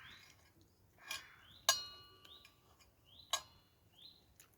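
Metal cutlery clinking against metal cookware: four sharp clinks, the loudest about a third of the way in, ringing on briefly. A small bird repeats a short rising chirp every half-second or so.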